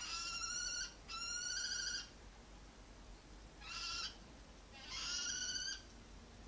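Common kestrel giving four drawn-out, wavering alarm calls while defending its nest, two in quick succession, then a pause and two more.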